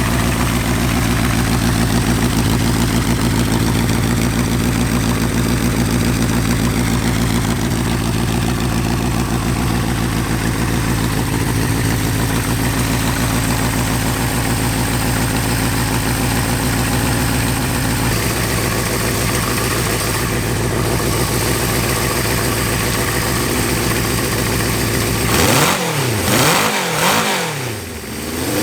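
1975 Honda CB550's inline-four engine idling steadily, its idle note shifting about 18 seconds in. Near the end the throttle is blipped, revving the engine up and down a few times. The engine has been running on open stacks without air filters, and the owner suspects it is running lean from air drawn in past old carburettor seals.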